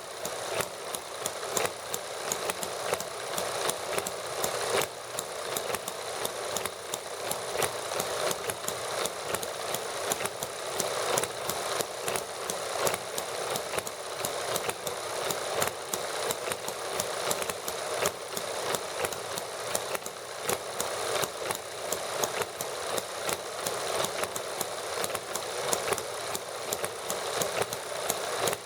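Small model engines running together, a dense, rapid clatter of firing strokes with no lower rumble, holding a steady pace and level.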